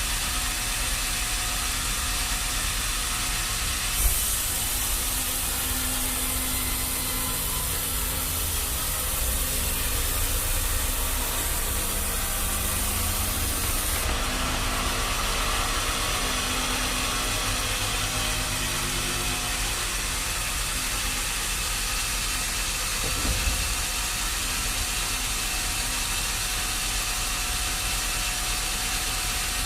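Sawmill machinery running steadily with a low hum. About four seconds in there is a knock, and a high hiss then lasts about ten seconds.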